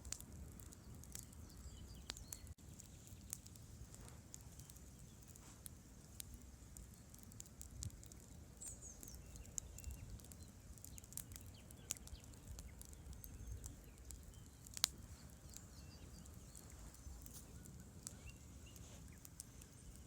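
Campfire crackling, with scattered irregular pops and one sharper snap about three-quarters of the way through, over the steady low rush of a river.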